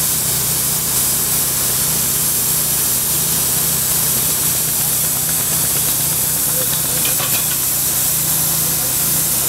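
Steady machine noise: a low, even hum under a strong hiss, holding unchanged throughout.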